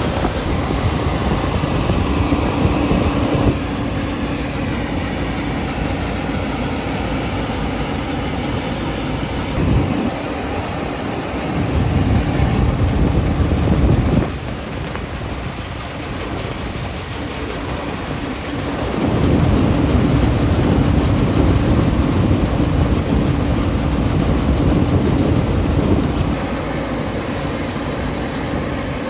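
Heavy diesel farm machinery running steadily, with a steady engine hum. The sound changes abruptly every few seconds.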